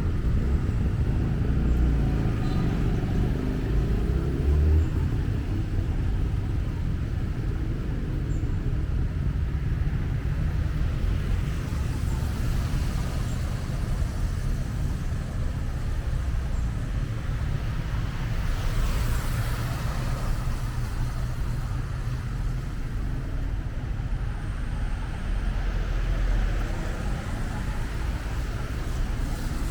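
City street traffic: a steady low rumble of vehicle engines, with one vehicle passing close about two-thirds of the way through, its tyres hissing as it goes by.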